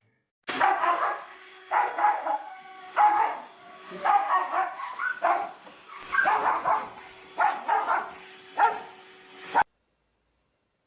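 A dog barking repeatedly, about nine short barks roughly a second apart, stopping abruptly near the end.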